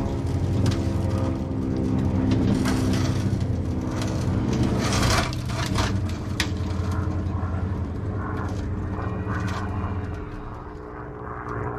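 An engine running steadily, with scrapes and knocks mixed in; the sound eases off near the end.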